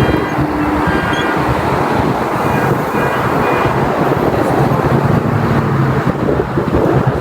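Loud, steady road traffic noise as vehicles pass close by, with a low engine hum underneath.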